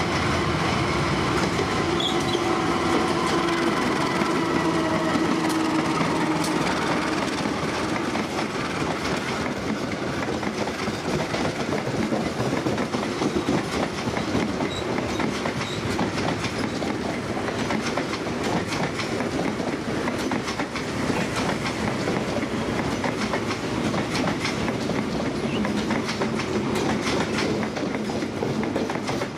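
A diesel-hauled passenger train passing through a station. The locomotive gives a few steady humming tones for the first several seconds, then the coaches' wheels clack steadily over the rail joints.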